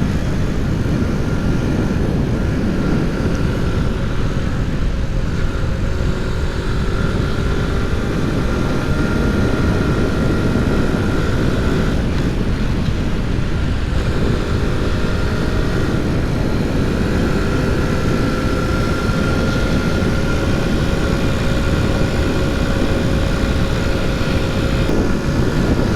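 Honda C90's small single-cylinder four-stroke engine running hard at steady speed, its note creeping slowly upward, under heavy wind rush on the rider's microphone.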